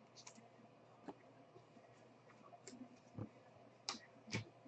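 Faint, scattered clicks and ticks of trading cards being handled and slid, about five light snaps spread over a few seconds with near silence between.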